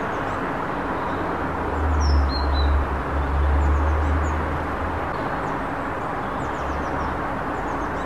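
Small garden birds giving a few short, high chirps, clearest about two seconds in, with fainter calls later, over a steady outdoor background hum. A low rumble swells between about two and five seconds in and is the loudest sound.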